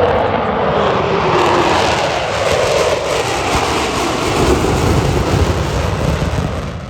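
A fixed-wing airplane flying past, its loud engine noise falling in pitch as it goes by and fading a little near the end.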